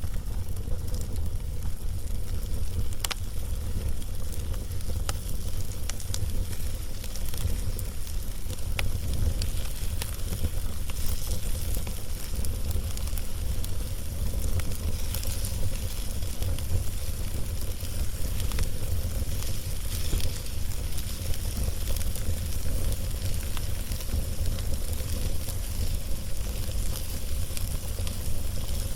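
Log fire crackling, with many small scattered pops and snaps over a steady hiss and a constant low rumble.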